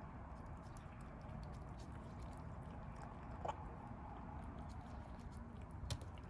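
Feral kittens eating: faint small clicks and crunches of chewing and moving at the food, with a brief squeak about three and a half seconds in and a sharper click near the end.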